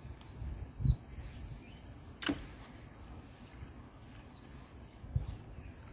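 Small birds chirping: a few short, quick falling chirps. There is a single sharp click about two seconds in and a couple of dull low thumps.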